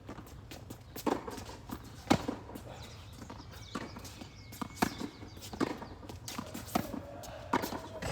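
Tennis rally: sharp pops of tennis balls struck by rackets and bouncing on the court, about one every second at an uneven pace.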